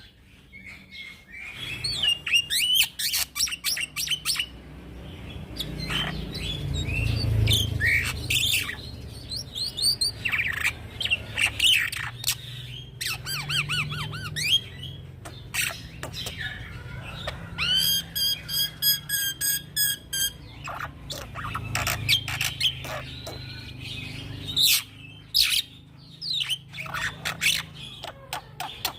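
Young black-winged myna singing a long, varied song of whistles, chirps and harsh squawks, with a fast rattling trill about two-thirds of the way through.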